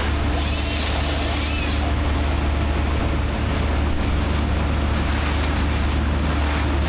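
Large diesel engine running steadily at constant speed, a deep even drone, with a hiss over it for the first couple of seconds.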